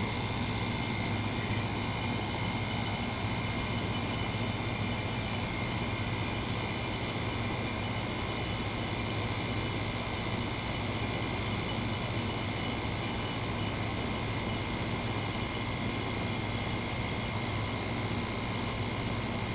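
Window air conditioner running steadily, the compressor humming under the sound of its fans, as it cools with the condenser getting warm. The fan motor runs with no bearing noise.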